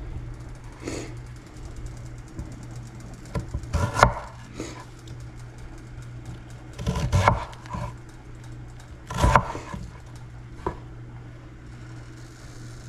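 Kitchen knife chopping red potatoes against a cutting board: a few separate chops, loudest about four, seven and nine seconds in, over a steady low hum.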